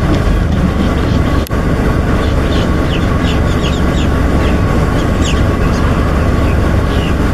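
Steady, loud low rumbling noise with many short, high bird chirps and quick falling calls over it; the sound cuts out for an instant about a second and a half in.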